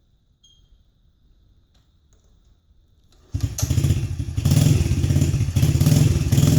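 Dirt bike being kick-started: a few faint clicks, then about three seconds in the engine catches suddenly and runs loud with a fast, even beat, its level swelling and dipping.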